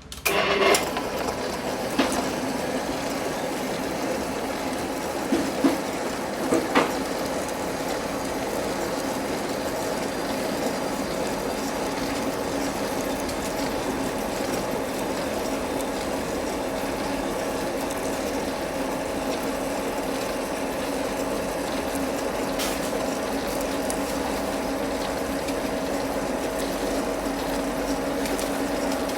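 Metal lathe running steadily, with a low hum and an even hiss. There are a few sharp clicks in the first seven seconds and one more a little before the end.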